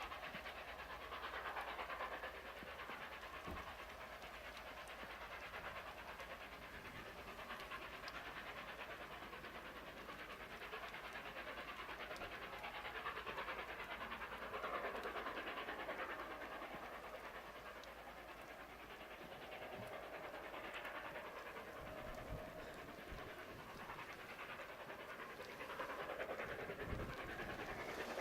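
Steam exhaust of the A1 Pacific locomotive Tornado, faint chuffing as it works a train away from the station, heard through a steady hiss of rain.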